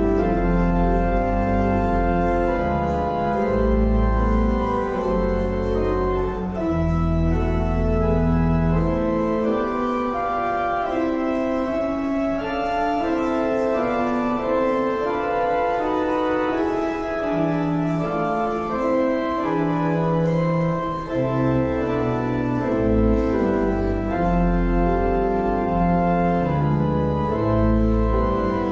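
Church organ playing slow sustained chords over deep held pedal notes; the bass notes drop out for several seconds near the middle, then return.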